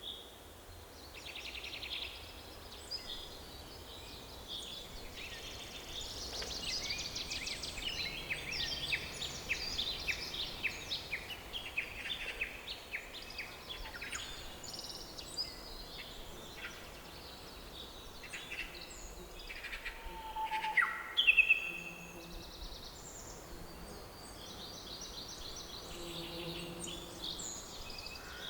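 Forest ambience of several songbirds singing and chirping, with fast trills and short whistled calls overlapping over a faint steady hiss; a louder burst of calls comes about three-quarters of the way through.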